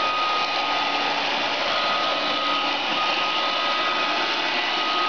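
Roomba robot vacuum running: a steady whir from its vacuum motor and brushes, with a thin, steady high whine.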